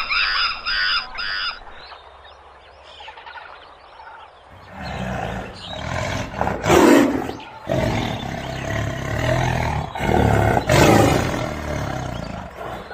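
A few short, high, repeated bird calls at the start, then from about four seconds in a large animal's loud, rough calls in several long swells.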